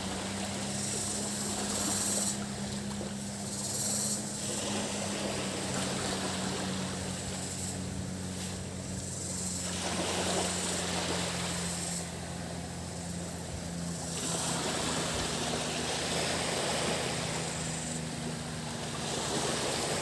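Sea waves washing onto a tropical beach, swelling and easing every few seconds, under a steady low engine hum from a motorboat offshore. A high buzz of cicadas runs above it.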